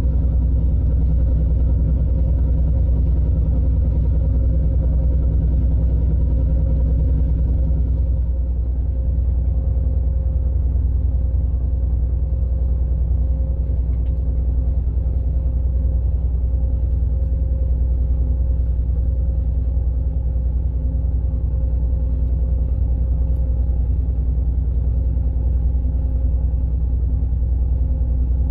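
The diesel engine of the river tug RT-643 running at a steady speed, a deep, even rumble with a constant hum in it. About eight seconds in the sound becomes slightly duller and quieter, then carries on unchanged.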